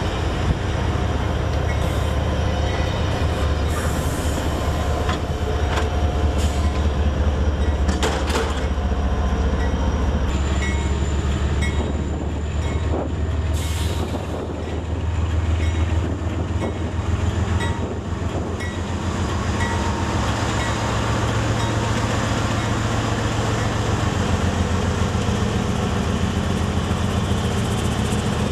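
Trains moving close by: wheels clacking over rail joints and squealing as passenger cars roll past, then diesel freight locomotives running as they pull slowly by, with a steady engine drone through the last third.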